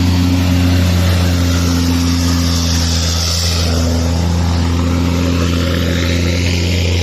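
Scania heavy truck's diesel engine pulling under load up a hill at a steady low pitch, with a hiss that swells about three seconds in.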